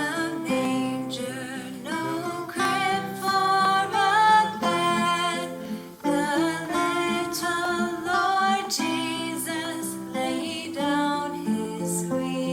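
A worship song being sung with acoustic guitar accompaniment.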